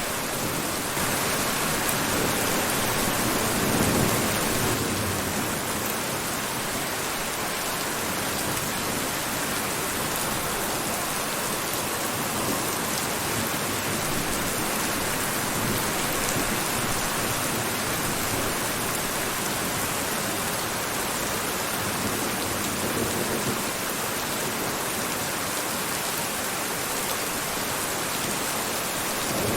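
Steady heavy rain, a dense even hiss, swelling a little louder and deeper for a few seconds about four seconds in.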